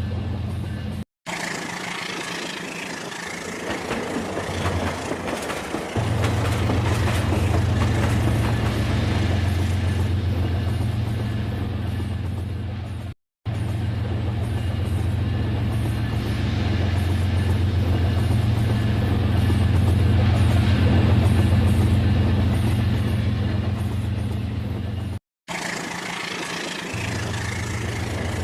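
Battery-powered Rail King toy train running on its track: a steady motor hum with a rattling clatter. The sound breaks off abruptly three times, about a second in, about halfway through and near the end.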